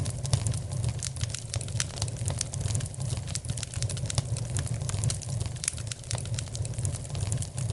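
Wood fire in a fireplace crackling, with many quick irregular pops and snaps over a steady low rumble.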